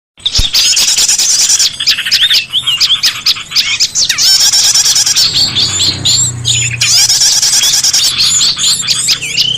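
Many small songbirds chirping and calling at once: a loud, busy chatter of overlapping high chirps, trills and quick up-and-down whistles, the kind of noisy mixed-bird recording played as a lure to draw small birds in.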